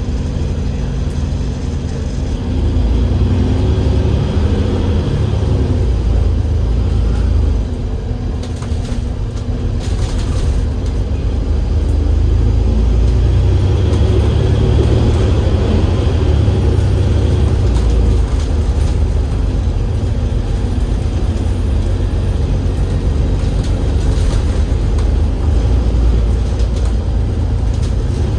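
A double-decker bus's Cummins L9E diesel engine running on the move, with its ZF Ecolife automatic gearbox. The engine note eases off around a third of the way in, then builds again and holds steady. A few brief rattles or clicks come as it picks up.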